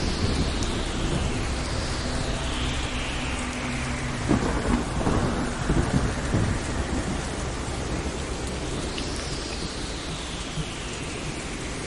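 Thunderstorm ambience: steady heavy rain under a low thunder rumble, with a cluster of sharp thunder cracks between about four and six and a half seconds in.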